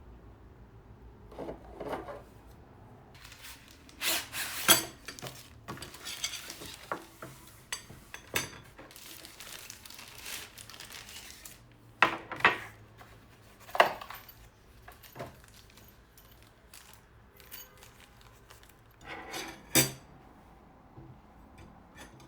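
Small objects being handled and set down on a hard surface: a series of irregular knocks and clinks with rustling and rubbing between them.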